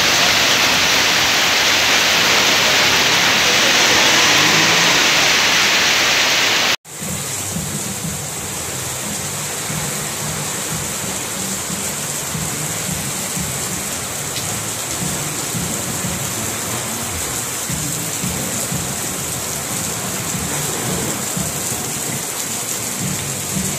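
Heavy rain pouring onto a street: a steady hiss of rain on pavement and surfaces. About seven seconds in it breaks off sharply and carries on a little softer.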